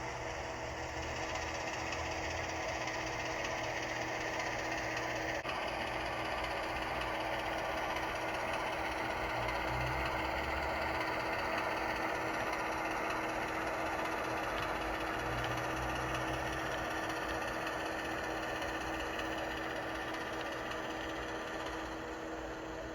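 HO scale model diesel locomotive's Soundtraxx Tsunami2 sound decoder playing a diesel prime-mover engine sound through the model's small speaker, running steadily. It gets a little louder towards the middle and eases off near the end.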